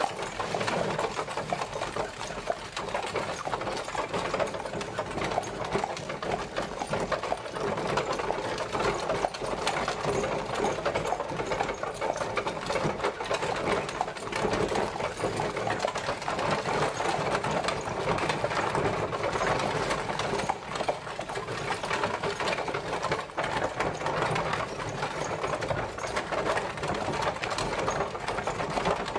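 Horse-drawn carriage on the move: a steady, dense rattle and clatter of wheels and woodwork.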